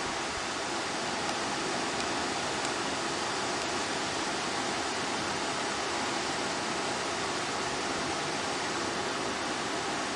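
Steady rush of water tumbling down river cascades.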